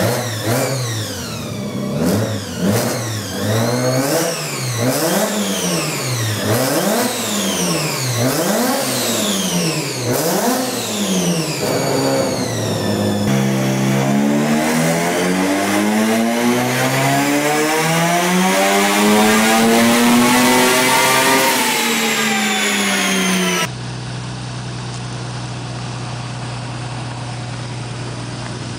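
A swapped car engine in a Nissan Skyline is blipped about eight times in quick succession, then pulled in one long run that climbs steadily in pitch for about eight seconds under load on a chassis dyno before backing off. About 24 seconds in, the sound cuts to a different engine idling steadily: a Toyota engine swapped into a Mitsubishi Pajero.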